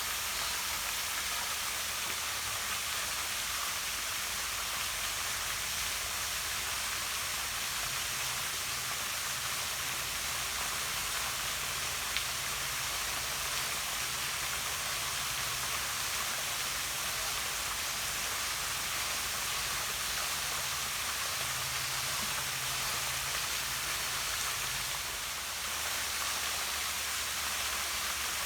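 Small waterfall pouring down rock into a pond: a steady, even rush of falling and splashing water.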